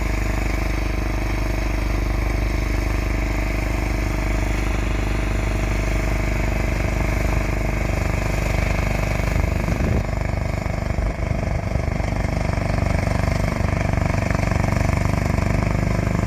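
A John Deere snowblower's engine running steadily while clearing snow, with a brief rough stretch of knocks about ten seconds in.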